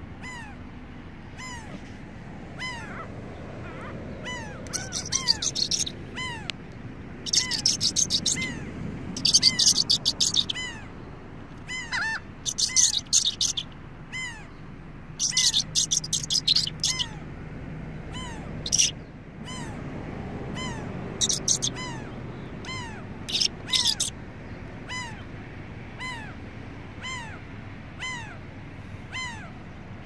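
Birds calling: a steady series of short, falling chirps, a little more than one a second, with several louder bursts of rapid, high-pitched chattering calls between about five and twenty-four seconds in.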